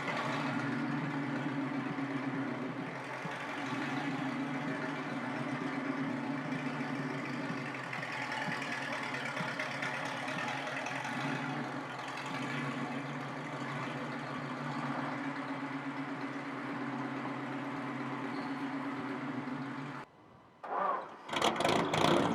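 Vintage inline-eight car engine running steadily at idle. Near the end it cuts out suddenly, then comes back louder.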